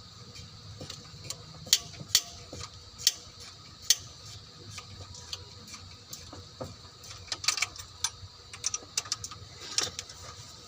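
Irregular sharp metallic clicks and taps of hand tools and parts being handled, scattered singly in the first half and coming in quicker clusters later, over a faint steady hum.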